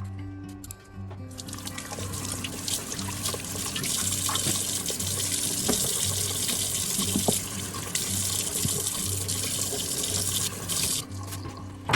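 Water running from a tap into a sink. It starts about a second in and cuts off near the end.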